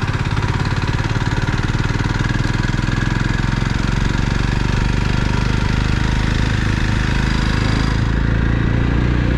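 Motorcycle engine running steadily while riding, with a fast, even pulsing from the engine's firing.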